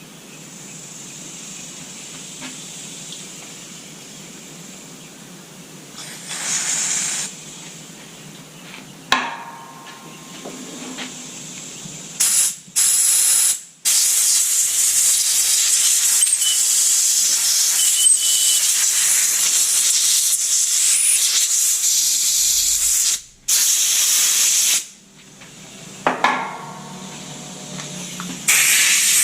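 Loud pressurised hissing in several bursts, the longest about nine seconds, starting and stopping sharply between them.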